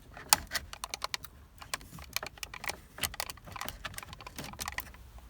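A quick, irregular run of light, sharp clicks and taps, several a second, like small hard objects being handled.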